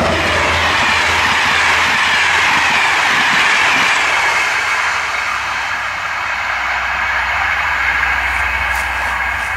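A passenger train hauled by an SNCF CC 72100 diesel locomotive passing at speed: the locomotive has just gone by and its coaches roll past with a steady rush of wheels on rail, with a whine that falls in pitch over the first few seconds. The noise eases slightly as the train pulls away near the end.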